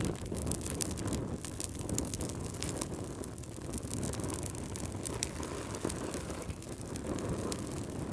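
Campfire burning: wood crackling with many quick sharp snaps and pops over a steady low rumble.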